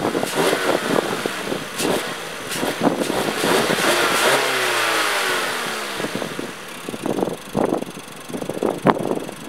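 2016 Mazda MX-5 Miata (ND) four-cylinder engine breathing through its stock intake, revved while the car stands still. Quick throttle blips come first, then a longer rev whose pitch falls back toward idle around the middle. A few short, separate blips follow near the end.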